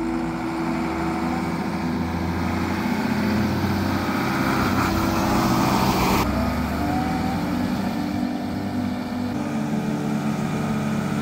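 An engine running steadily, with its tone shifting about six seconds in.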